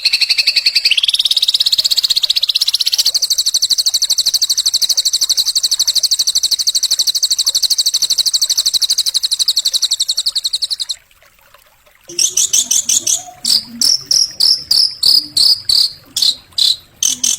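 Songbird masteran recording: a high, very rapid pulsing trill that steps up in pitch twice in the first few seconds, then runs steadily for about eleven seconds and stops. After a second's pause comes a run of sharp, separate chirps and short rattles.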